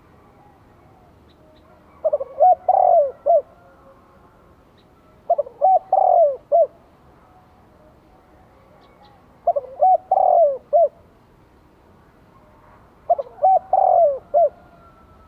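Spotted dove cooing: four phrases of several short rising-and-falling coos, each about a second long, repeated every three to four seconds. This is the calling song keepers use as a decoy to draw in wild doves.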